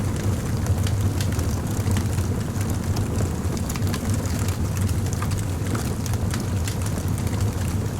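Wood fire crackling: frequent small sharp pops and snaps, irregularly spaced, over a steady low rumble.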